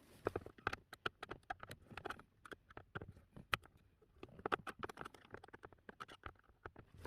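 Irregular clicks, taps and knocks, several a second, of hands handling plastic interior trim and parts in a car's cabin, with light rustling between them.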